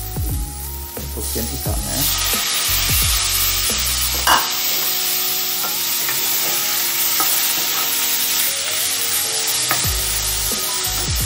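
Chunks of raw fish fillet sizzling in hot oil with sliced shallots and garlic in a nonstick wok, the sizzle growing much stronger about two seconds in as the fish goes in, while a plastic spatula stirs and scrapes the pan. A single sharp knock about four seconds in.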